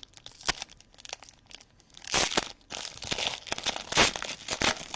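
Foil trading-card pack wrappers crinkling and tearing as packs are opened and handled, with louder bursts of crackle about two seconds in and again about four seconds in.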